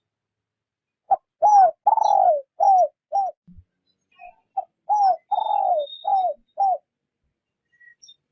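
Spotted dove cooing a decoy-style 'rút bổi' call: two phrases of about five low coos each, a couple of seconds apart, the longer middle notes sliding down in pitch at their ends.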